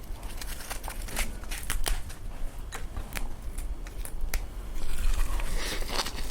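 Close-miked eating sounds: a string of crisp clicks and crackles, with a denser rustling stretch about five seconds in.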